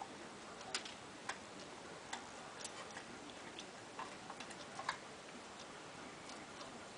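Cockatiel knocking its beak against something hard: a run of sharp, irregular ticks over a faint steady hiss, the loudest just before the five-second mark.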